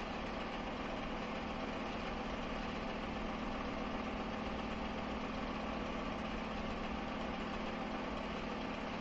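A steady, unchanging machine hum with an even hiss, and no knocks or clicks.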